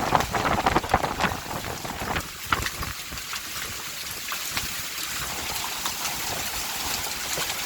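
Hailstones and heavy rain pelting down in a thunderstorm: many sharp ticks and clicks of hail striking, dense in the first couple of seconds and sparser later, over a steady hiss of rain.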